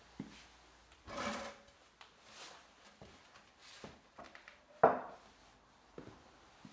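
Hand work with tools and parts: several short scrapes and light clicks, and one sharp knock about five seconds in.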